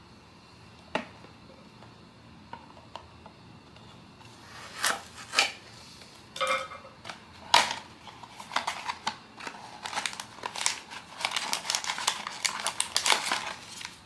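Hands handling blind-box packaging: a sharp click about a second in and a few light taps, then crinkling plastic wrapping and clicks, growing denser through the second half.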